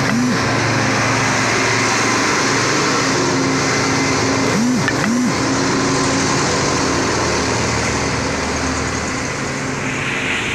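Road traffic: vehicle engines running steadily as vehicles pass, with a pair of short rising-and-falling tones near the start and another pair about five seconds in.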